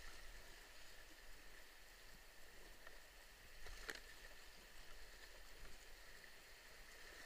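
Faint, steady rush of moving river water around a canoe, with one light knock about four seconds in.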